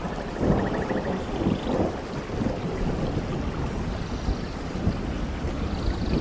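Steady heavy rain in a tropical rainforest, with a continuous low thunder rumble that swells now and then. A faint rapid high trill sounds above the rain near the start and again near the end.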